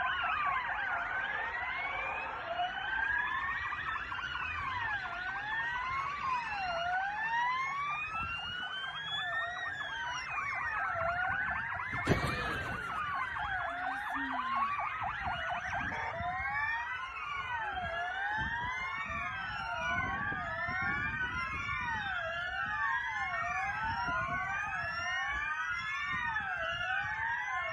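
Emergency-vehicle sirens wailing, rising and falling in pitch and overlapping, with more of them sounding together from about halfway on. A single sharp knock about twelve seconds in.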